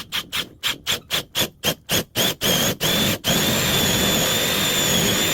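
Power drill with a 1-inch bit boring into a wooden 2x6. The motor is pulsed in short bursts about four times a second, then held running steadily with a high whine from about three seconds in.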